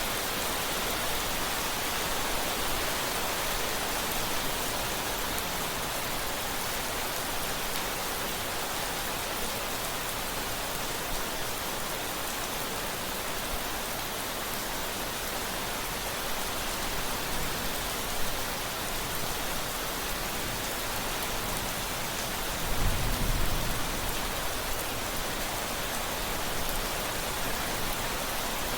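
Steady rain falling as an even hiss, with one brief low rumble of thunder about two-thirds of the way through.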